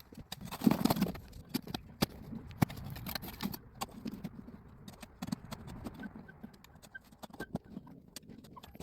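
Irregular knocks and clicks, with a cluster of duller thuds about a second in.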